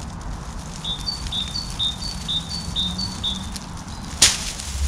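A small wild bird singing a run of about six quick two-note phrases, each a lower note followed by a higher one, about two a second. A single sharp click sounds near the end.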